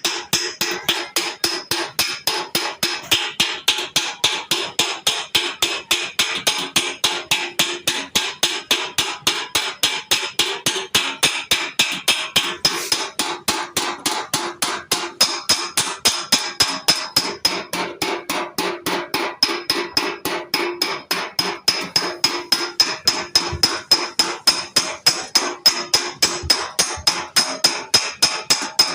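Panel-beating hammer striking the sheet-metal body side of a Toyota in a rapid, even stream of blows, several a second, the panel ringing with each strike as a dent is worked out.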